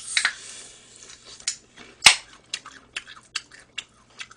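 Close-up biting and chewing of crispy fried chicken. A crackly crunch at the first bite is followed by a string of short, crisp crunches, with one sharp, loud click about two seconds in.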